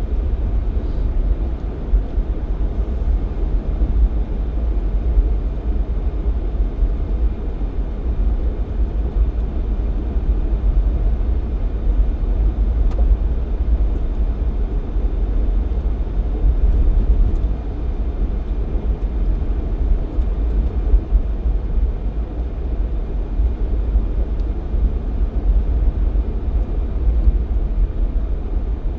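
Jeep XJ Cherokee driving at a steady pace: a continuous low rumble of road and drivetrain noise with no changes in pace.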